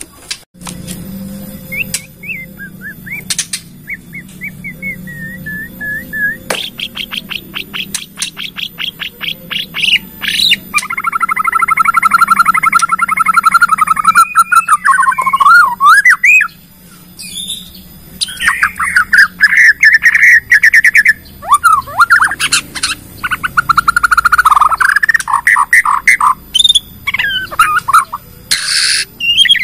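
White-rumped shama (Bornean murai batu) in full, varied song, used as a lure to set other shamas singing. It starts with soft whistled notes, turns to a fast series of sharp notes, then gives loud trilled rattles and whistled slurs. A faint low hum runs under the first half.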